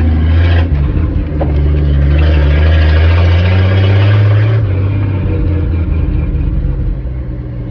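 Old carbureted truck's engine running while driving, pulling harder and rising a little in pitch from about two seconds in, then easing off about halfway through.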